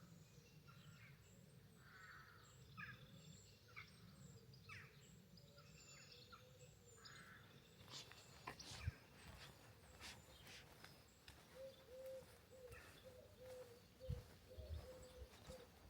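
Faint outdoor ambience with birds chirping: scattered short calls throughout, and a faint low wavering tone joining about two-thirds of the way in.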